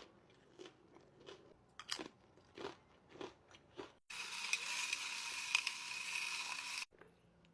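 Crunchy chewing of crackers with turkey and cheese: a run of crisp crunches and bites. About four seconds in, a louder steady hiss starts abruptly and cuts off just as suddenly near the end.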